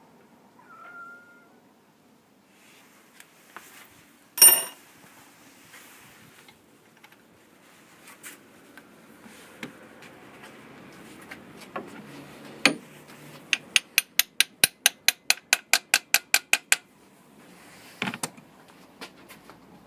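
Metal tools clinking, one loud ringing clink about four seconds in, then a ratchet wrench clicking rapidly and evenly, about five or six clicks a second for some three seconds, while cylinder head bolts are worked with a special spline key, followed by a short clatter near the end.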